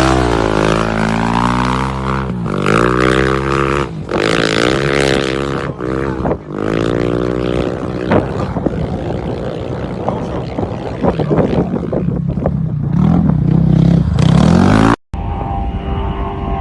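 A rally vehicle's engine revving hard as it passes, its pitch rising and falling several times, then a rougher, noisier run. A cut near the end brings in another engine running at a steadier pitch.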